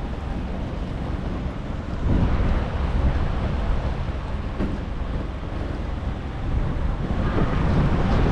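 Strong storm wind buffeting the microphone in gusts, with a low rumbling rush that swells about two seconds in and again near the end.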